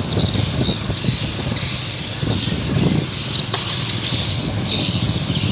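A motorcycle running steadily while being ridden, its engine a fast, low pulsing under a steady hiss.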